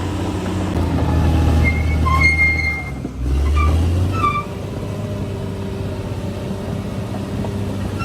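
Bulldozer's diesel engine running steadily at work, with a brief dip in its rumble about three seconds in and a few short high squeaks around the same time.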